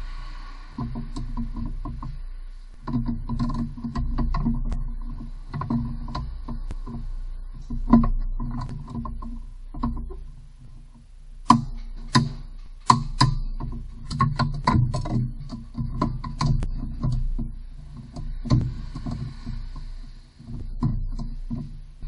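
Hand tools working on a car's rear wheel hub: irregular metallic clicks and knocks over a low rumble, with a few sharper clanks about halfway through.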